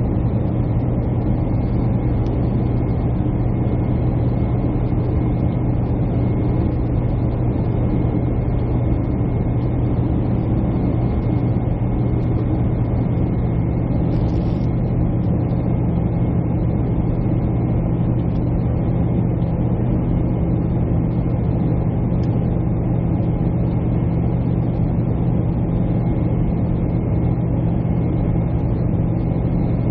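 Steady jet airliner cabin noise: a constant engine and airflow rumble with a strong low hum and a faint thin high tone. A second low tone joins about halfway through.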